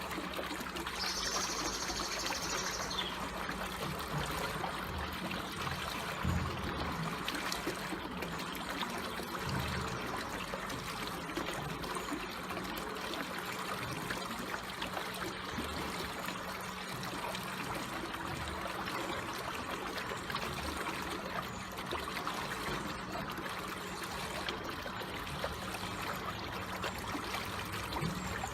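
Water flowing slowly and calmly in a steady trickle. A brief high-pitched warbling tone sounds about a second in.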